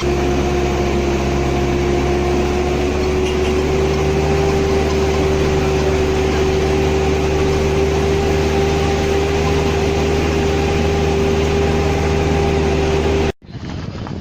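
Vehicle engine running steadily, a loud constant drone with a held hum. It cuts off suddenly near the end.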